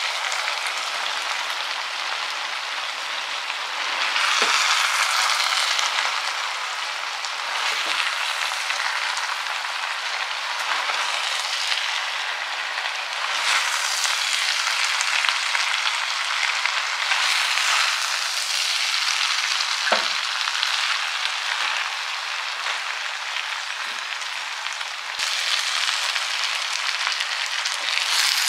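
Fried rice with vegetables sizzling in a large pan as it is stirred and turned with wooden spatulas, the hiss swelling each time the rice is tossed. A few knocks of the spatula against the pan.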